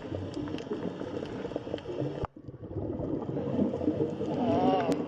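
Sea turtle call: a short moaning call that rises and falls in pitch near the end, over a steady noisy rumble with scattered clicks. The rumble cuts out abruptly a little over two seconds in and returns.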